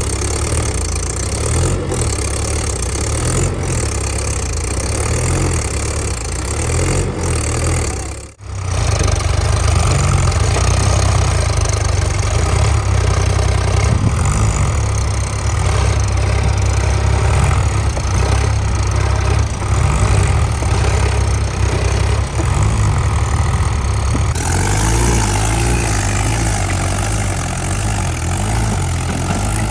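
Tractor diesel engine running steadily, with a brief sudden dropout about eight seconds in and a change in the engine sound near the end.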